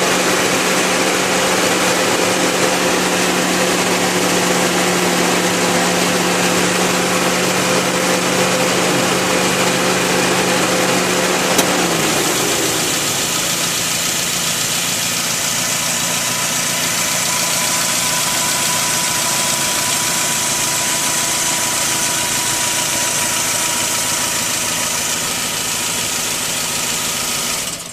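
Suzuki Grand Vitara running at idle with its A/C compressor working, after a refrigerant discharge, new desiccant filter, A/C oil and recharge. A steady hum and hiss; about twelve seconds in a click sounds and the lower hum slides down and fades, leaving a steadier hiss with a faint higher whine.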